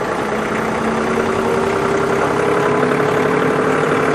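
Tractor engine running steadily at low speed.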